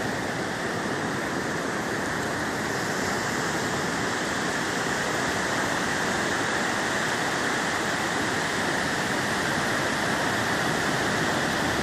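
Steady rush of ocean surf, an even hiss of breaking waves with no single crash standing out.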